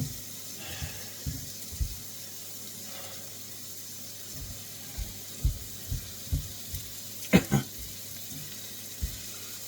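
Onions and celery sweating in a wok: a steady soft hiss, with scattered light knocks and one sharper clatter about seven seconds in.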